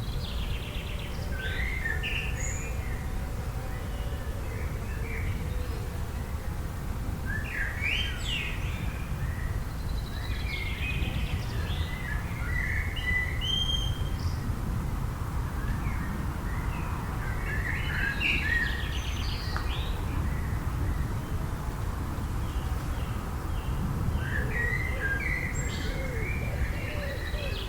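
Songbirds singing in bouts of quick chirps and trills, roughly every eight seconds, over a steady low rumble of background noise.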